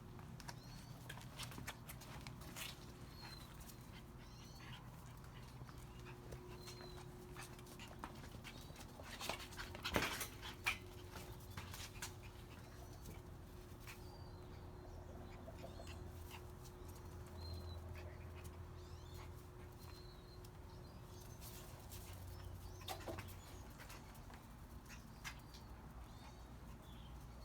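Shiba–Eskimo mix puppies making faint, high squeaks and whimpers scattered throughout, with a few sharp clicks and knocks about ten seconds in.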